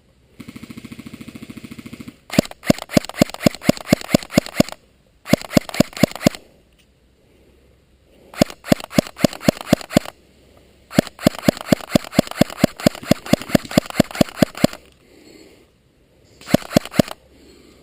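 Electric airsoft guns firing. First comes a short fast buzzing burst, then repeated bursts of sharp, evenly spaced shots, about four or five a second, with brief pauses between bursts.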